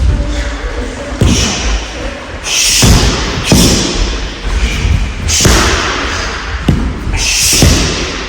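Punches and kicks landing on a rolled-up mat used as a striking target: irregular sharp thuds a second or two apart, with short hissing sounds between them.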